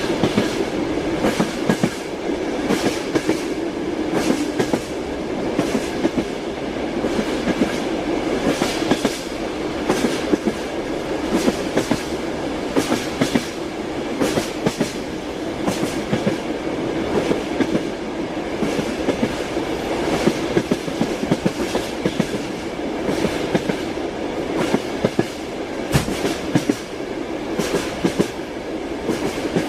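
Train wheels clacking over rail joints: a steady rolling rumble with repeated sharp knocks coming in quick clusters throughout.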